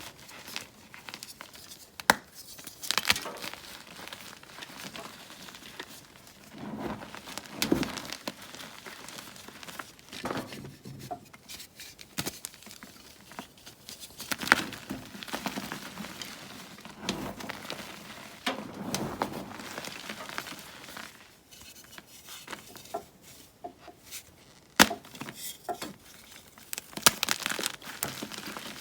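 Blocks of gym chalk being crushed and crumbled by hand: irregular crisp crunching and crumbling, with a sharp snap now and then as pieces break.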